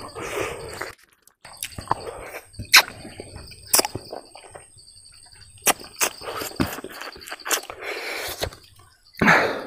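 Close-miked eating sounds: chewing with a scattering of sharp wet lip-smacks and mouth clicks as garlic fried rice and smoked meat are eaten by hand. A faint steady high-pitched insect drone runs underneath, and a louder noisy rush comes near the end.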